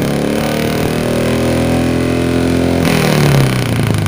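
Carbureted Suzuki Futura engine revved and held through a newly fitted 4-2-1 header and HKS muffler exhaust. The revs are let go about three seconds in with a short burst of noise, and the pitch falls back.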